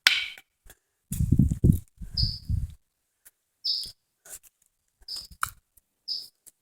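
A small bird chirping: short, high chirps repeated about once a second. Loud rustling and thumps come between about one and three seconds in.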